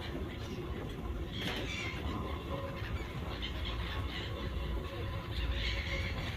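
Seagulls calling in shrill squealing cries, a burst about a second and a half in and more near the end, over a steady low rumble.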